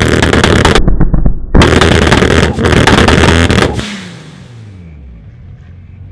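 Tuned Toyota Supra Mk4's straight-six engine revved hard while standing still, held high with sharp crackling pops from the exhaust. About four seconds in it drops back down through the revs to a low idle.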